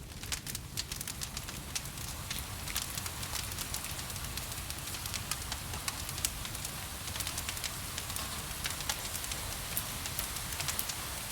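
Wood fire crackling, with frequent sharp pops scattered irregularly, over a steady hiss of rain and a steady low rumble.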